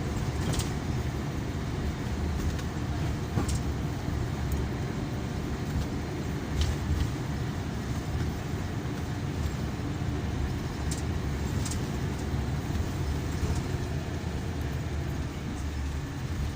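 Scania K340EB coach with Irizar PB bodywork heard from inside the passenger cabin while under way: a steady low engine and road rumble, with a few brief clicks and rattles from the interior.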